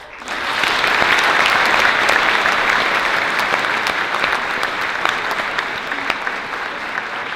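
Audience applauding and cheering after a song, starting abruptly as the singing ends, strongest in the first couple of seconds and easing off a little toward the end.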